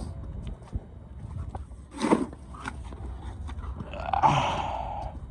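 Snow shovel working heavy wet snow: a sharp crunch about two seconds in, then a longer scrape of the blade through the snow near the end.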